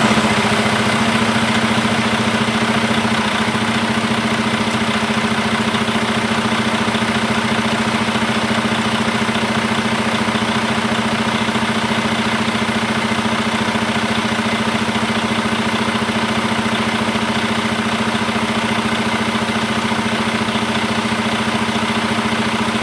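12.8-litre six-cylinder Detroit Diesel engine of a Freightliner M2 112 box truck idling steadily just after a start.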